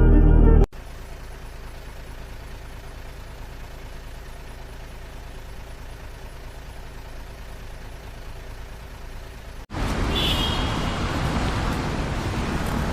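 Heavy vehicle engine running with a steady low hum. About ten seconds in, the sound cuts to a louder, rougher engine, with a short high hiss just after the cut.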